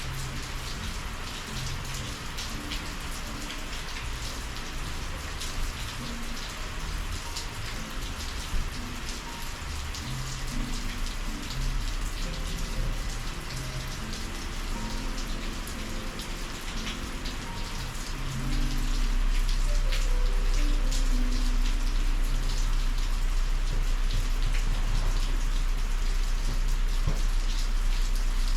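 Steady summer rain falling, with separate drop hits heard over the hiss. A deep low rumble comes in about two-thirds of the way through, and the sound gets louder.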